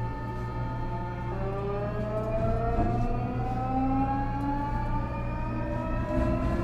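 Nankai 8300 series IGBT train's VVVF inverter and fully enclosed traction motors whining under power: several steady tones shift abruptly about a second and a half in, then climb steadily in pitch as the train accelerates, over the low rumble of the car running on the rails.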